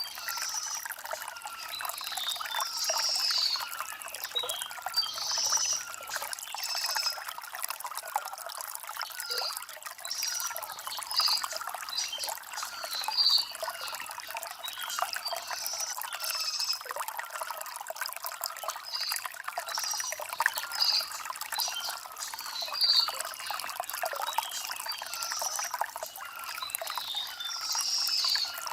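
Shallow stream trickling and gurgling over river stones, with birds chirping in short high notes every second or two.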